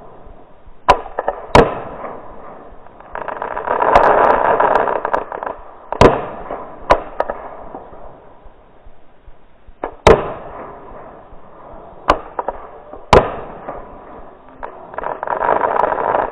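Fireworks going off: a string of sharp single bangs every second or few, with two longer rushing, crackling swells, one about three seconds in and one near the end.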